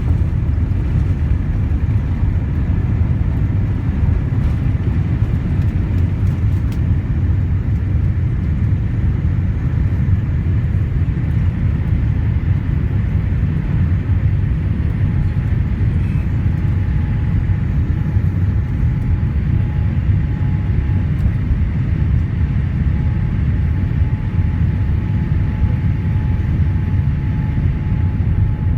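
Inside the cabin of a Boeing 787-8 with its GEnx-1B turbofans running: a loud, steady low rumble of engine and airflow noise. A faint steady whine joins about halfway through.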